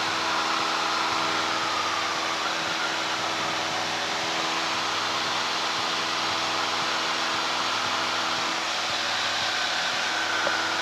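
Steady drone of a Cessna 152's four-cylinder Lycoming O-235 engine and propeller heard inside the cabin at climb power, with a faint high whine wavering over it.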